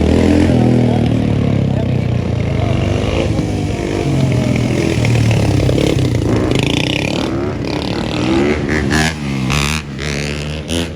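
Motorbike engine running close by and revving, its pitch rising and falling, with a few short, harsher bursts near the end.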